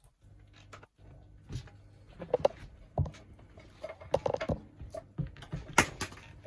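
Sneakers pressing and stepping on cake: irregular soft thuds and squishy knocks, with a couple of sharper hits near the end.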